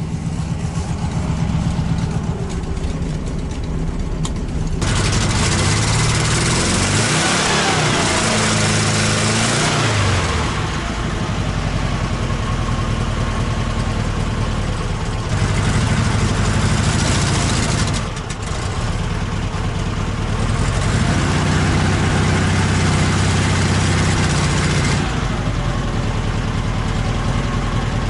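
The air-cooled V4 engine of a ZAZ-968 Zaporozhets is running on old petrol. It is revved up and let back down several times, with steadier running between the revs.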